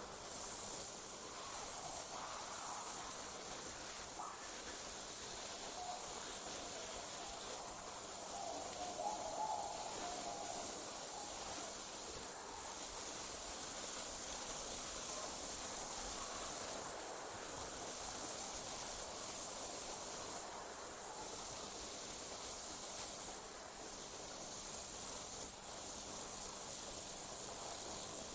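Crickets trilling at night in one steady high-pitched chorus, broken by short pauses every few seconds.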